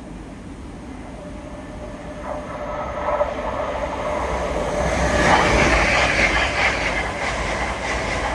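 LNER Azuma high-speed train passing through the station at speed: wheel-and-rail rush that builds from about two seconds in, is loudest around five to six seconds in, and stays loud to the end.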